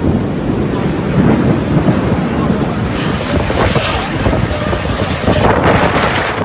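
Loud rushing noise of a rainstorm, with wind buffeting the microphone. It swells about halfway through and again near the end.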